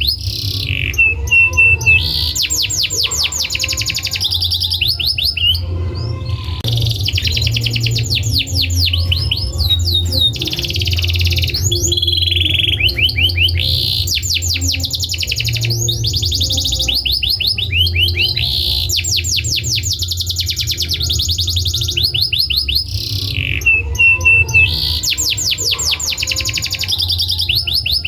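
Domestic canary singing a long song of fast trills: runs of rapidly repeated high notes, in phrases a few seconds long with brief breaks between them. A steady low hum runs underneath.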